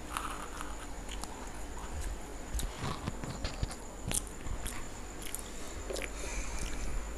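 Close-up biting and chewing of a crisp fried onion pakoda: scattered small crunches and mouth clicks.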